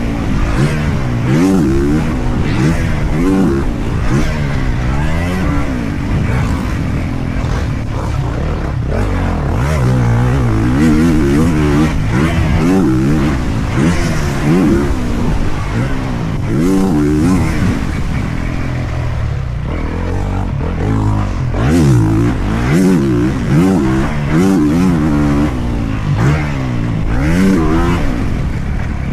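A 450cc four-stroke motocross bike being ridden hard, its engine revving up and dropping back over and over.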